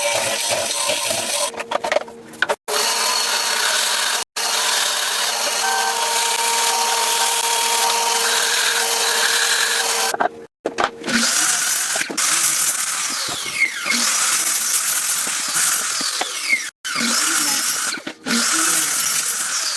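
Power tools running on wood in a run of short clips cut together, each ending abruptly. A steady motor whine holds for several seconds, and later pitches slide down as the tool changes speed.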